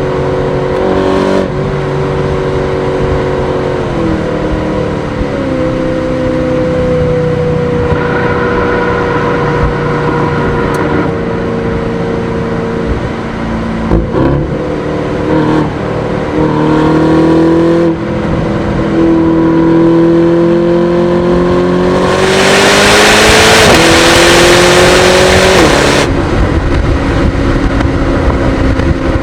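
Aston Martin DBX S's 4.0-litre twin-turbo V8 on the move, its note stepping down and back up several times and climbing steadily under acceleration later on. A loud rushing noise joins it for about four seconds near the end.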